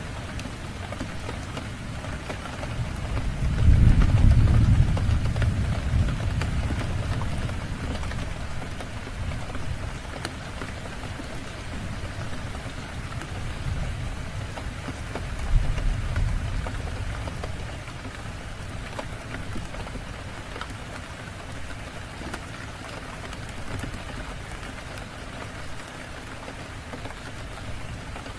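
Steady heavy rain with thunder rumbling low twice: a loud roll about four seconds in and a shorter one around the middle.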